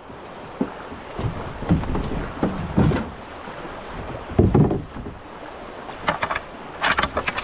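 Canoe being paddled through fast river water: irregular paddle splashes and thuds against a steady rush of current, with a sharp splashy burst near the end.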